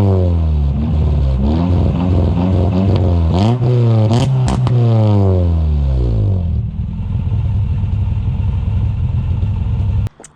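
Exhaust note of a freshly reassembled Honda H22A4 four-cylinder swapped into a 1995 Honda Del Sol, revved in repeated quick blips, the revs falling back after each one. About six and a half seconds in it settles to a steady idle, and the sound cuts off just before the end.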